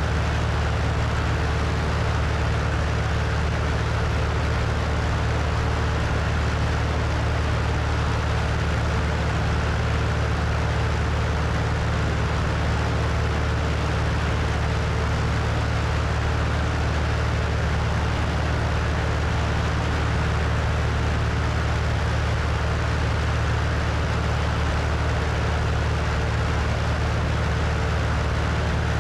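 Cessna 172's piston engine and propeller running steadily in flight, with a low, even drone under a constant rush of wind over the wing-mounted microphone.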